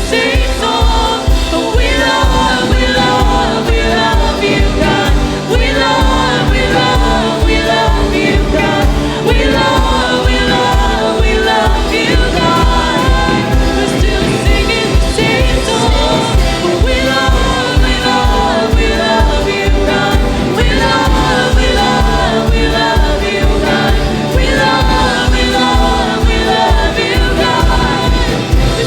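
Live church worship band and singers performing a slow gospel worship song, with a steady low beat under the voices.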